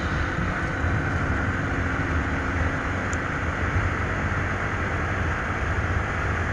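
Steady rumble and hiss of a vehicle under way on the road.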